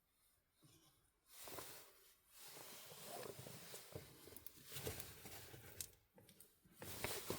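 Hands handling PVC vent pipe and fittings: intermittent rustling and scraping with light clicks and knocks, starting about a second in and loudest near the end.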